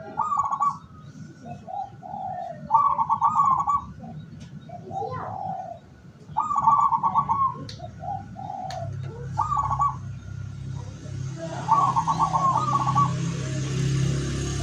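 Zebra dove (perkutut) cooing, about five repeated phrases, each a few lower notes followed by a rapid trilled coo. A steady low hum comes in partway through.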